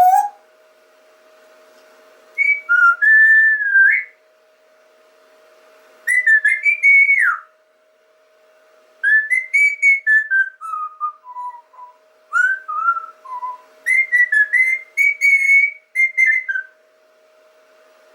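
Whistling in five short melodic phrases of gliding notes with pauses between them, over a faint steady electrical hum.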